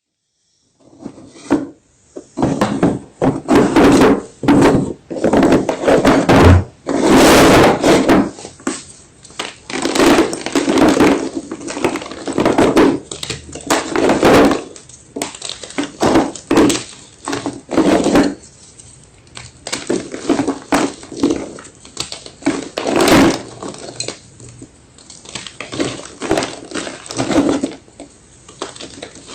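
Blocks of white gym chalk crunching and crumbling as they are crushed, one sharp crackly crunch about every second from about a second in.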